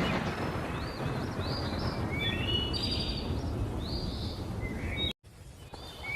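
Thunderstorm rumble and noise with birds calling in short rising chirps over it. The sound cuts out abruptly about five seconds in and comes back quieter.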